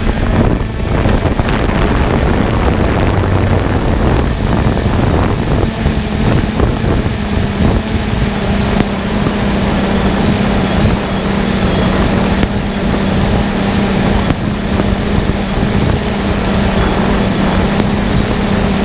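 A steady motor hum with wind noise rumbling on the microphone.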